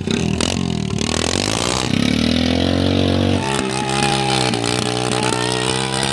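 A vehicle engine running and revving, its pitch climbing and falling, then holding at a steadier higher speed.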